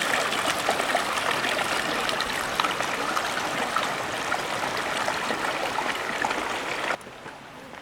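Mountain stream flowing steadily, a dense rush of water that cuts off abruptly about seven seconds in, leaving a quieter hiss.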